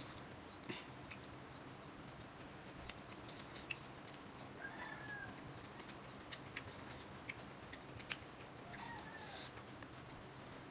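Close eating sounds: scattered soft clicks and smacks of chewing and of rice being mixed and picked up by hand from a small plate. Faint short high calls are heard twice in the background, about five seconds in and near nine seconds.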